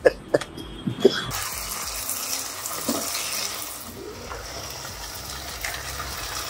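Onions and tomatoes frying in oil in a pot, with a few spatula clicks against the pot in the first second. A steady sizzle sets in about a second in.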